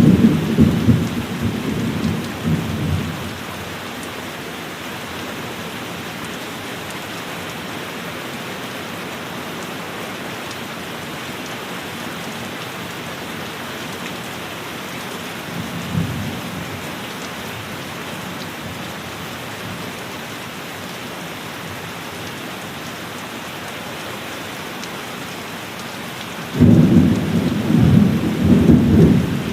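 Steady rain with thunder: a low rumble fades out over the first few seconds, a short rumble comes about halfway through, and a loud roll of thunder breaks in suddenly near the end.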